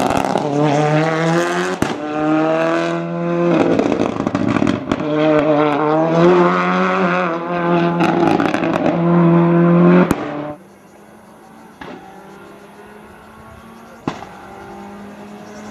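Ford Escort rally car engine at full throttle, its pitch climbing and dropping back at each upshift. About ten seconds in the sound falls away abruptly to a faint, distant engine.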